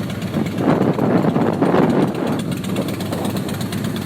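Motorcycle engines running, with a louder swell from about half a second in that lasts about two seconds before settling back.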